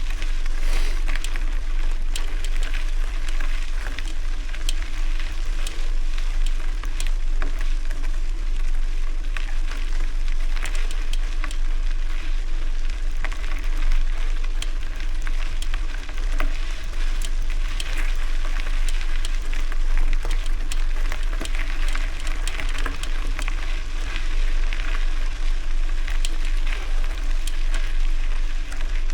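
Bicycle tyres rolling over gravel, a steady crackle of loose stones, with wind rumbling on the microphone.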